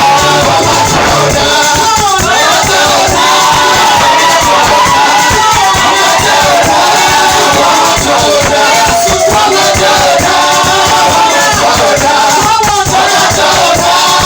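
Loud live church praise music: voices singing a wavering melody over a band with a dense, steady beat.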